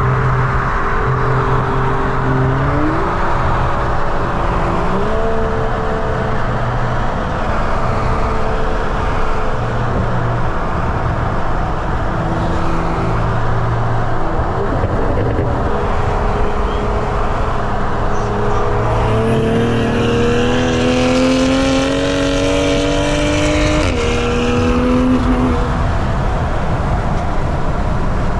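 Turbocharged inline-six sports car accelerating hard at highway speed. The engine note climbs in each gear and drops at each upshift, several times. The longest, strongest pull comes about two-thirds of the way in.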